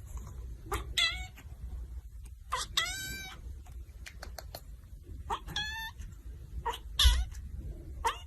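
A cat meowing about four times, each a drawn-out call falling in pitch, the loudest near the end.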